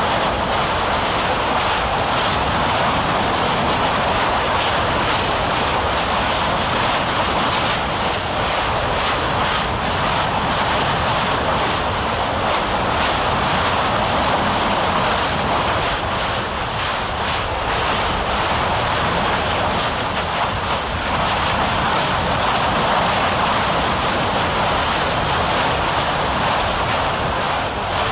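Steady, loud rushing noise with no distinct events, level throughout.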